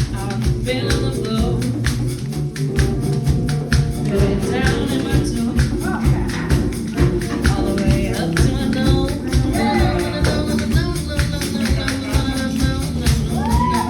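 Live hand drums playing a fast, steady groove, with other percussion and some singing over it.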